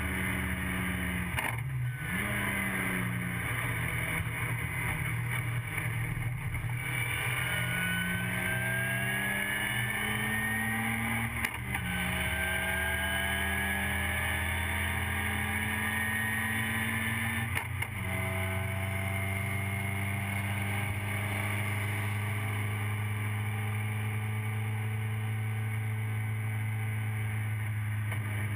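TVR Vixen race car's Ford Kent Crossflow four-cylinder engine at racing speed, heard from inside the cabin. The pitch climbs steadily under acceleration and drops sharply at upshifts about 11 and 18 seconds in, with a brief dip near the start. For the last ten seconds it holds at steady high revs.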